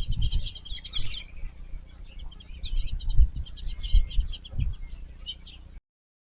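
Black-headed grosbeak singing a warbled song of short, rich phrases, over a low rumble on the microphone. The sound cuts off near the end.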